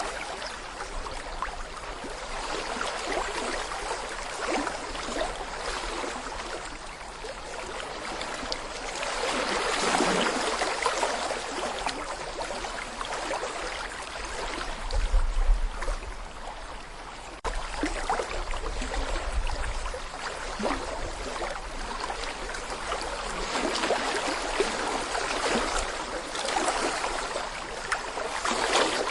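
Babbling brook: shallow water flowing and gurgling over stones, a steady rush that swells and eases every few seconds. A low rumble comes in for a few seconds around the middle.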